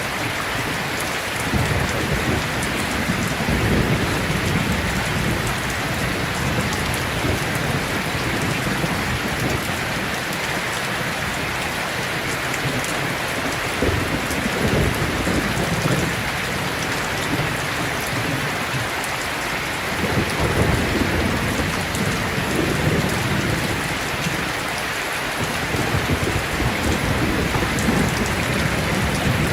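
Heavy, steady rain with rolls of thunder rumbling low several times, each swelling and fading over a few seconds.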